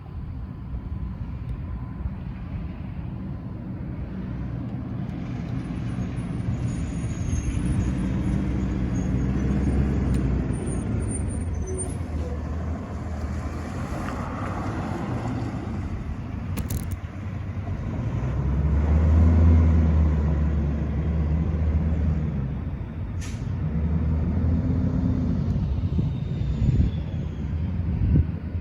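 Diesel garbage trucks running as they drive in, the engine sound swelling and fading several times and loudest about two-thirds of the way through.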